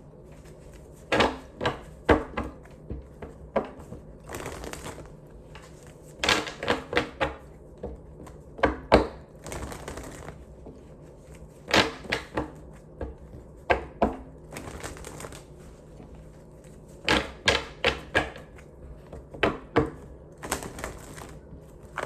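A deck of cards being handled and shuffled: quick groups of sharp clicks and taps, with several brief riffling swishes in between.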